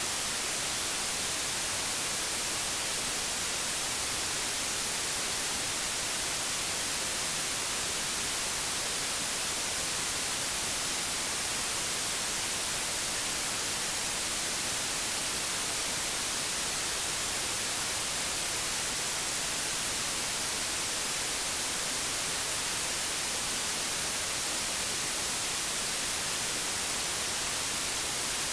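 Old analogue television static: a steady, even hiss, brightest in the treble.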